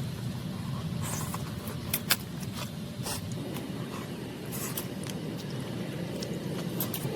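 Steady low rumble under scattered clicks, knocks and short scraping sounds of objects being handled, the sharpest pair of knocks about two seconds in.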